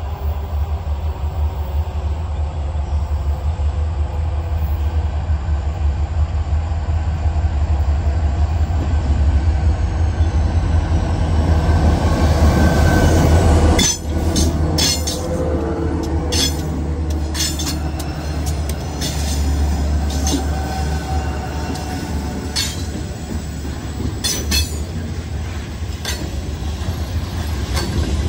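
Wheeling & Lake Erie freight train passing close by: the diesel locomotives' engines drone louder as they approach and go by, then about halfway through the hopper cars roll past with sharp, repeated clicks of wheels over rail joints.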